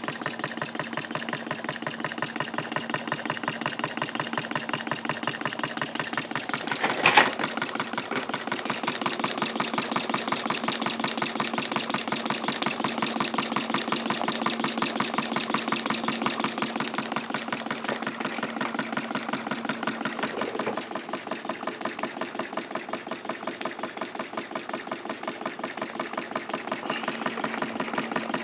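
Homemade model steam engine with a 1-inch bore, running steadily on live steam with rapid, even exhaust beats. A single short, sharp sound stands out about seven seconds in, and the running gets a little quieter about two-thirds of the way through.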